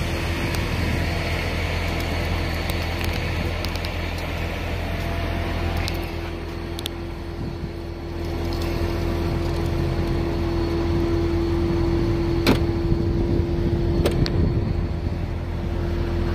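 Steady low mechanical hum with a constant mid-pitched tone running under it, and two sharp clicks, about twelve and fourteen seconds in.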